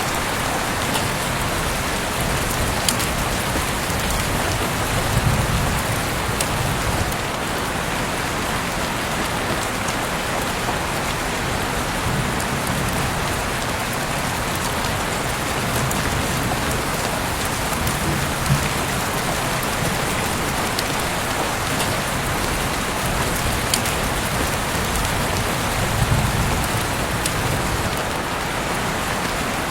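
Heavy rain falling steadily, with a few sharper drop clicks and brief low rumbles now and then.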